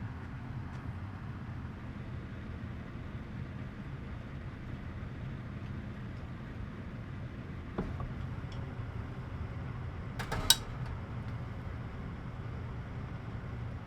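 A steady low hum, with a soft knock about eight seconds in and a brief cluster of sharp clinks, the loudest sound, about ten and a half seconds in.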